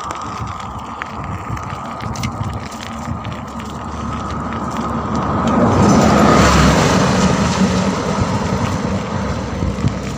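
Steady wind and road noise from riding a bicycle along a road. A motor vehicle passes, growing louder to a peak about six to seven seconds in, then fading.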